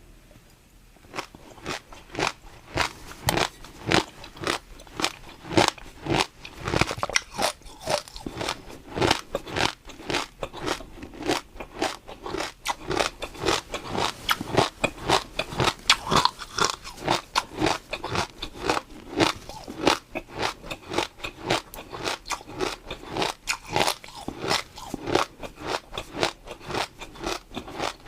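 Close-miked chewing of crunchy food: a steady run of sharp, wet crunches at a few per second.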